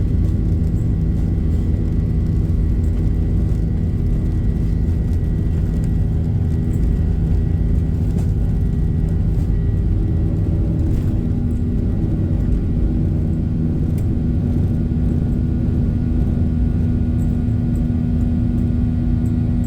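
Steady cabin rumble of a Boeing 737-800 in flight, from its CFM56 engines and the airflow past the fuselage. A low steady hum within it grows stronger about halfway through.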